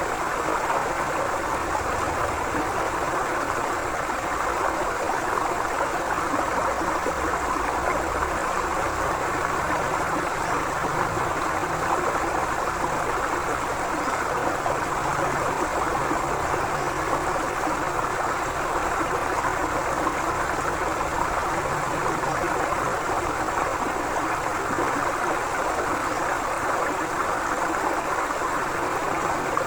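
Forest river flowing, a steady even rush of water.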